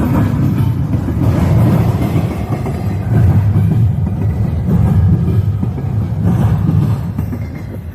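Freight train passing, its rail cars rolling over the track with a continuous heavy rumble and wheel clatter.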